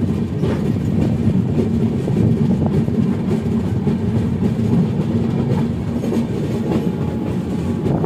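Steady running noise of a moving Indian Railways passenger train, heard from a coach window: a dense low rumble of wheels on rails with faint clicks.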